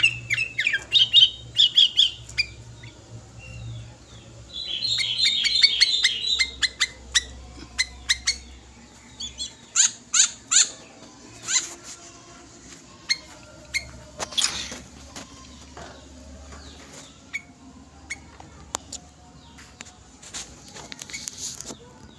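Sooty-headed bulbul (kutilang) singing: a quick run of rapid chattering notes about five seconds in, then scattered short, sharp whistled notes.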